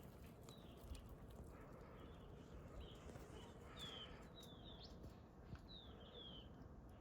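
An animal's faint, short high chirps, each falling in pitch, about ten at irregular intervals, over a low rumble.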